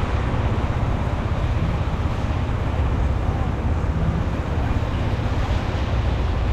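Steady street noise of a busy city avenue in the rain: a constant low traffic rumble under an even hiss, with voices of passersby mixed in.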